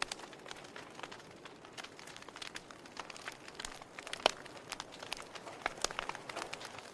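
Wood fire in a fireplace crackling: a soft hiss of flames with irregular snaps and pops, one sharper pop about four seconds in.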